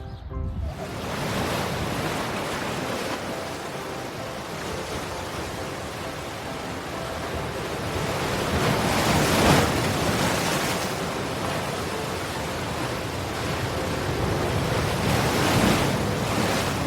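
Sea surf: waves washing in, rising to their loudest about halfway through and again near the end.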